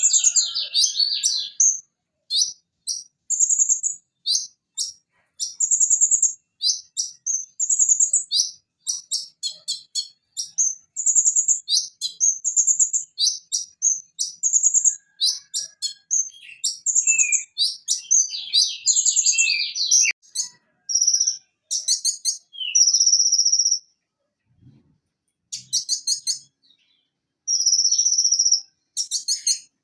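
Purple-throated sunbird (konin, Leptocoma sperata) singing: a fast, unbroken run of high, sharp chirps and rattling trills. It stops briefly about three-quarters of the way through, then goes on with longer buzzy notes.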